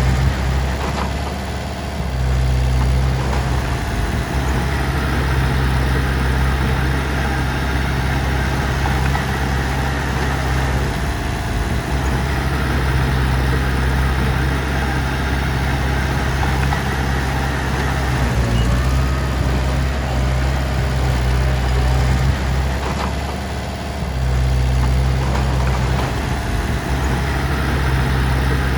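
Heavy diesel engine of recovery machinery running steadily, with a deep low drone and brief dips in level about two seconds in and again near 24 seconds.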